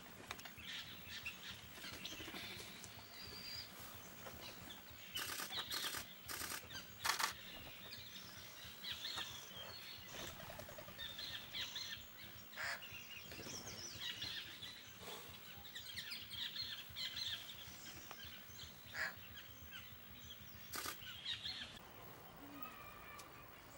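Several small birds chirping and calling, many short notes overlapping. A few sharp clicks stand out about five to seven seconds in and once more near the end.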